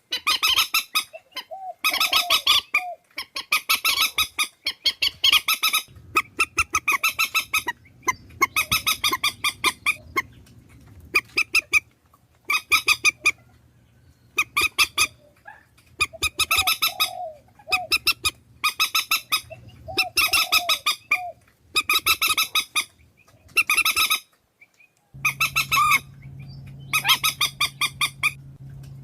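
Purple swamphen calling: a long series of loud, harsh, honking notes delivered in short bursts with brief gaps between them. This is a lure call used to draw swamphens in for trapping. A faint steady low hum runs underneath.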